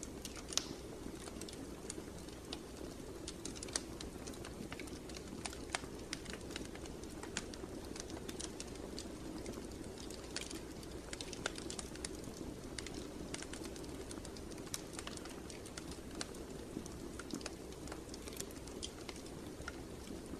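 Wood fire in a fireplace crackling: irregular sharp pops and snaps over a steady low rush of burning.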